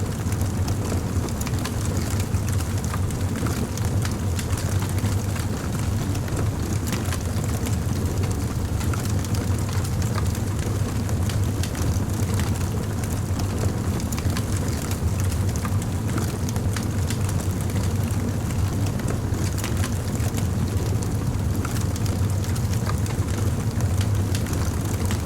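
Fire crackling: a steady low rumble under frequent small, irregular crackles and pops.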